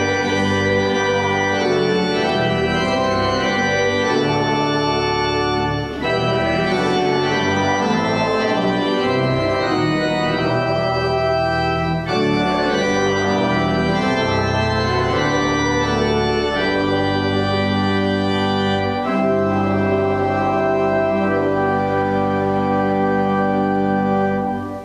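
Organ playing offertory music in sustained chords, full and steady, changing chord every second or two and stopping just before the end.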